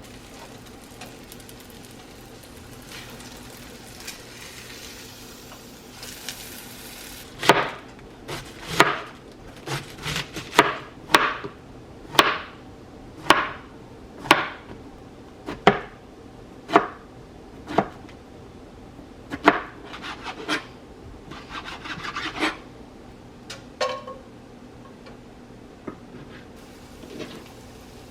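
A knife chopping on a wooden cutting board: slow, sharp chops about once a second, starting several seconds in and stopping a few seconds before the end.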